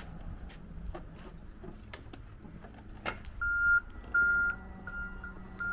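Reversing alarm on a Yale ERP18VT battery-electric forklift beeping, the sign that the truck is being driven in reverse. The beeps start a little over halfway through and repeat at about one and a half a second, with a few sharp clicks before them.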